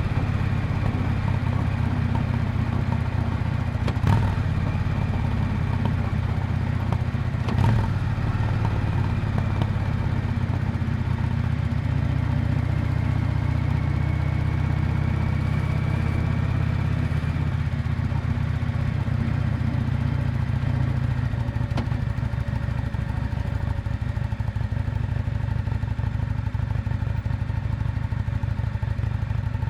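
Yamaha Drag Star 400 Classic's V-twin exhaust at steady cruising speed, the engine note shifting only slightly. Two short knocks are heard, about four and eight seconds in.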